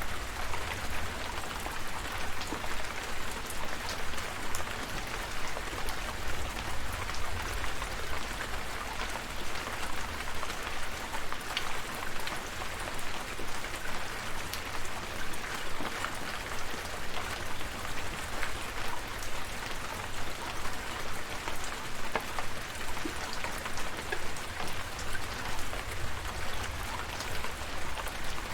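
Steady rain falling, an even hiss with individual drops ticking through it and a low rumble underneath.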